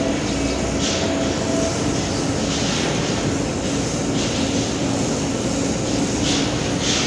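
Steady machine running noise: a continuous drone with a low hum and a hiss that swells now and then.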